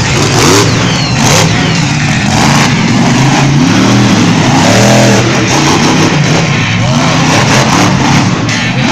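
A show truck's engine revving hard over and over, its pitch climbing and dropping in repeated sweeps.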